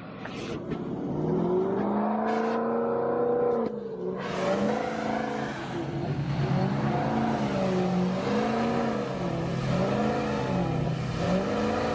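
A vehicle engine revving: one rev climbs and holds for a couple of seconds, drops off, then the engine is blipped up and down repeatedly, about once a second.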